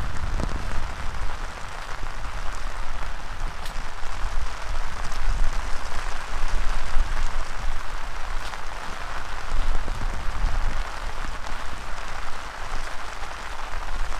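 Heavy rain falling steadily, with a few sharper drops standing out, over a gusting low rumble of strong wind.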